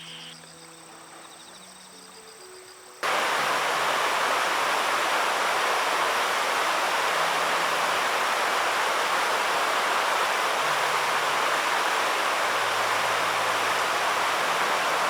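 Insects chirping softly, then about three seconds in a sudden change to the loud, steady rush of river water flowing over rapids or a weir.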